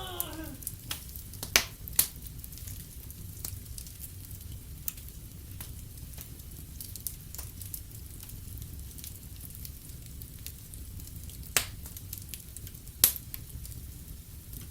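Wood fire in a fireplace crackling over a steady low rumble, with scattered small ticks and a few sharp pops, louder about two seconds in and again near the end.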